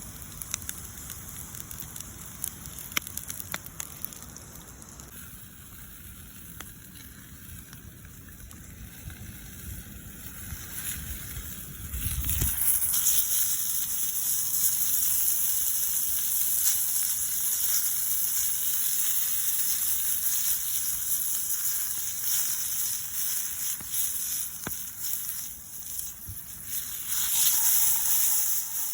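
Campfire crackling with scattered sharp pops. About twelve seconds in, a low thump is followed by a loud, steady, high hissing that carries on to near the end.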